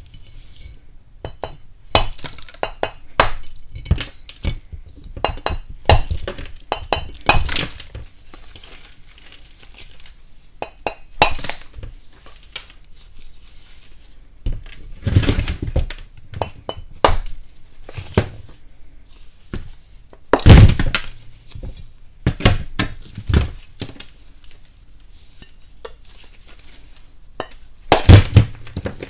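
Pieces of chalk being split and tapped: irregular sharp knocks and cracks with brittle crumbling between them. The loudest breaks come about halfway through, at about two-thirds and near the end.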